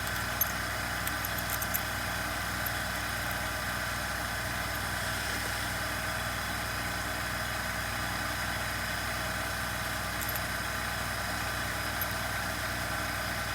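Steady mechanical hum of background machinery that does not change, with a few faint small clicks in the first two seconds and another near the end.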